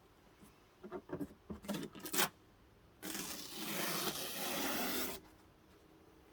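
A few clicks and knocks, then a steady hiss of compressed air lasting about two seconds that cuts off sharply: an air-powered truck bed liner spray gun firing a burst of bed liner.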